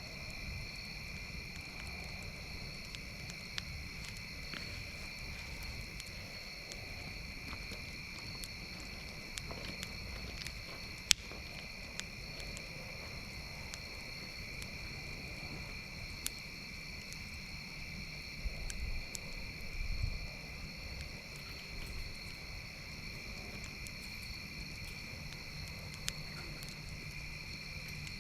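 Campfire crackling with scattered sharp pops, one louder pop about eleven seconds in, over a steady high chorus of insects such as crickets.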